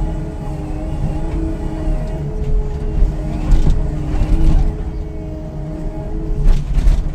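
Demolition machinery engine running, with several sharp crashes about halfway through and again near the end as the house is broken up.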